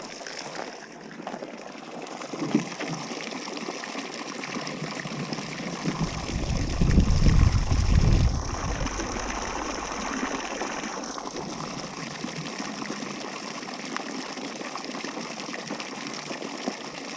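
Water running and trickling steadily. A louder low rumble lasts about two seconds near the middle.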